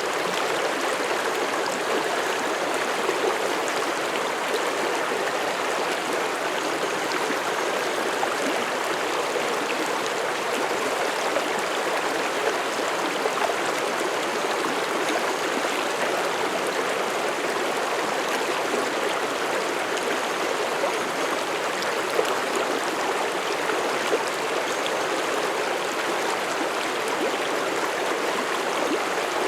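Mountain stream rushing and gurgling over rocks, a steady even flow of water.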